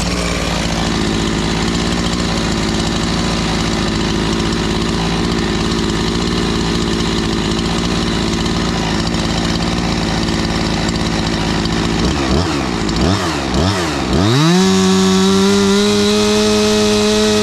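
Husqvarna 345 two-stroke chainsaw idling steadily, then blipped three times about twelve seconds in, then held at full throttle with no load until the end. The throttle is held wide open to check the no-load maximum RPM against the 12,500 limit after tuning.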